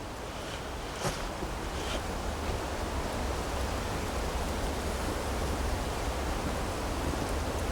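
Steady rushing noise with a low rumble, growing slightly louder, with a couple of faint clicks about one and two seconds in.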